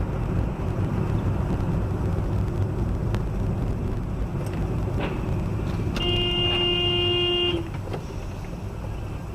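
Steady road rumble of a moving car, then a car horn sounds one long honk about six seconds in, lasting about a second and a half.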